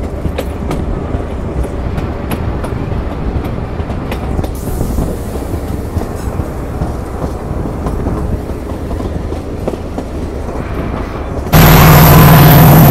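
Narrow-gauge train carriages rolling across a bridge, a steady rumble with irregular clicks of the wheels over rail joints. About eleven and a half seconds in it cuts suddenly to a much louder, steady diesel locomotive engine running in a tunnel.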